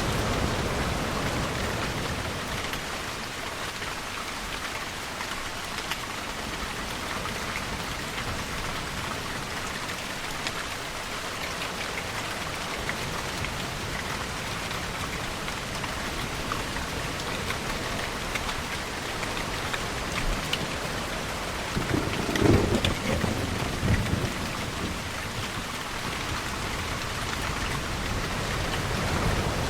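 Steady rainfall with a brief, louder rumble of thunder about three-quarters of the way through.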